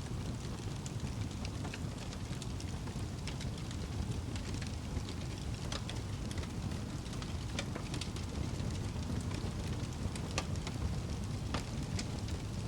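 Wood fire burning in a fireplace: a steady low rumble of the flames with irregular crackles and pops, a few of them sharper.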